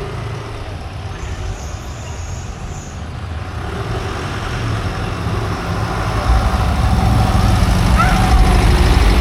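Low engine rumble of a motor vehicle, growing louder over the last few seconds.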